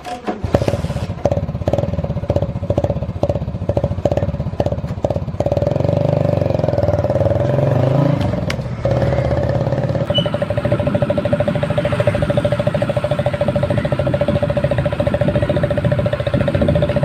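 Hero Splendor single-cylinder motorcycle engine with a Pepsi can fixed over the exhaust as a makeshift muffler to make it sound like a KTM Duke. It is revved in a string of short blips for about the first five seconds, then runs steadily.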